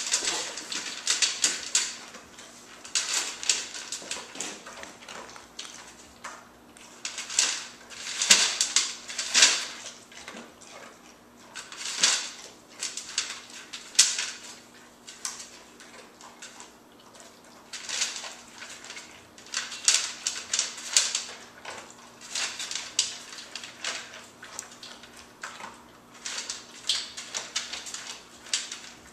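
Dog eating from a bowl: irregular bursts of chewing and crunching with clinks of the bowl, each cluster lasting a second or two with short pauses between.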